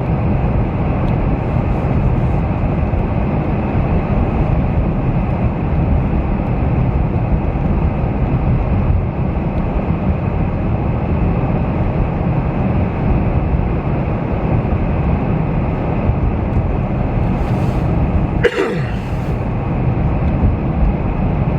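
Steady road and engine noise of a car driving on the interstate, heard from inside the cabin. A brief sharp sound cuts in once near the end.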